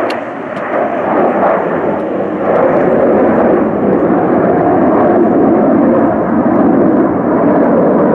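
Aircraft engine noise from an airshow flight: a loud, dense rumble that grows louder about two and a half seconds in and then holds steady.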